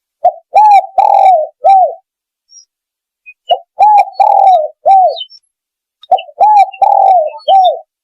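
Spotted dove (tekukur) cooing, used as a hunting lure call. It sings three phrases of four low, arched notes each, one phrase about every two and a half seconds.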